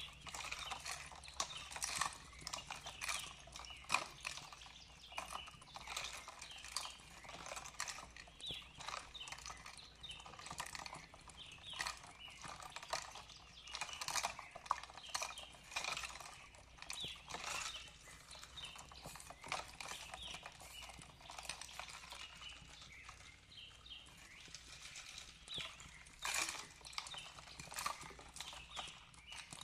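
Fireplace crackling with irregular sharp pops and snaps, with small birds chirping softly among them.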